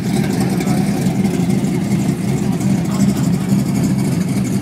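Chevrolet Chevelle drag car's engine idling as the car creeps forward to stage, a loud, steady low rumble with a rough, uneven beat.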